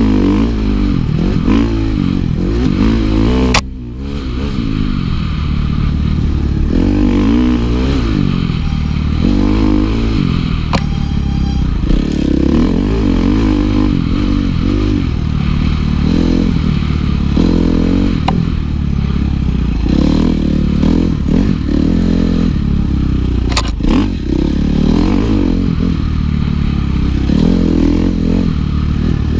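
Dirt bike engine being ridden hard, its revs rising and falling continuously with the throttle. The revs cut off briefly about four seconds in, and there are a couple of sharp knocks.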